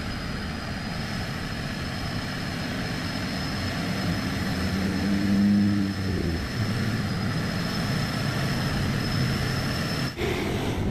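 Heavy truck engines running on a hill climb, the noise swelling as a truck draws close about five seconds in, with a short low tone near the middle and a thin steady high whine that stops about ten seconds in.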